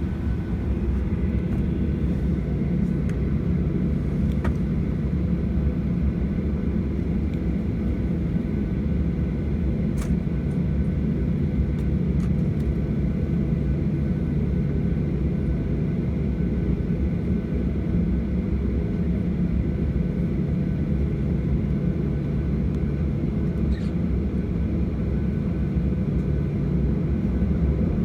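Steady low rumble of cabin noise inside a Boeing 737-800, its CFM56-7B jet engines running and airflow through the cabin, heard from a window seat before takeoff.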